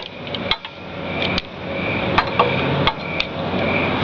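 Small metal parts of a lawn mower engine clinking and knocking as they are handled and fitted back into place: a dozen or so irregular sharp clicks and taps.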